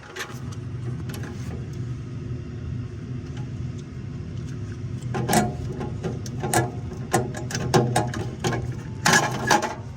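Metal parts clinking and knocking as a bracket is fitted over the burners of a gas furnace, the clatter coming in clusters through the second half, over a steady low hum.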